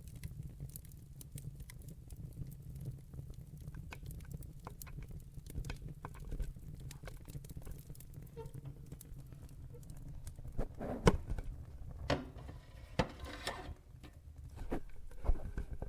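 Wood fire in a fireplace crackling: many sharp pops and snaps over a low steady rumble, with a few louder pops about eleven to thirteen seconds in.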